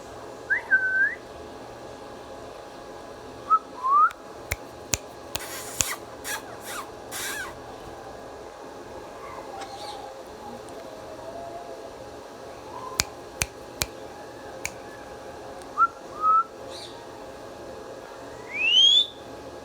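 Ringneck parrot giving short whistled calls that rise in pitch, with sharp clicks and a few short harsh bursts in between, and a longer rising whistle near the end.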